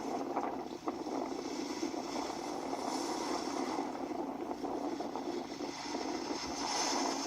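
Sea waves washing in: a steady rushing surf noise that swells and eases a little.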